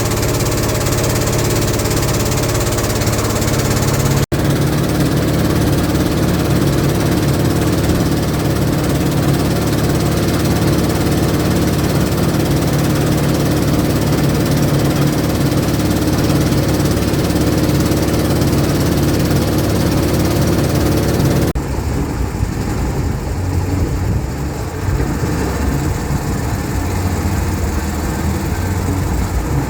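Long-tail boat engine running steadily under way. The sound changes abruptly twice, about four seconds in and again after about twenty-one seconds, when it turns quieter and lower.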